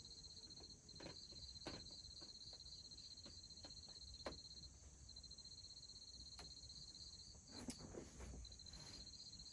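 Faint insects trilling in long, even, pulsing trills that break off briefly a few times, over a steadier higher shrill, with a few scattered faint clicks.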